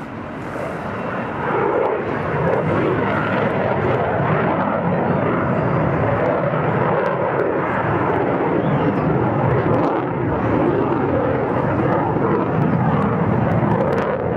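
F-16 fighter jet flying its air-show display: a loud, steady jet roar that swells about a second and a half in and holds.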